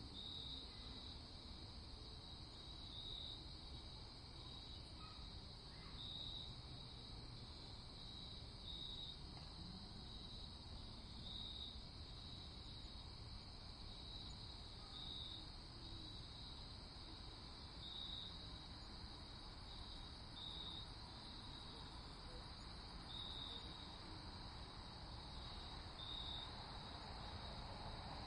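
Crickets chirping in a night-time ambience: a steady high trill with brighter pulses every second or two, over a faint low rumble of background noise.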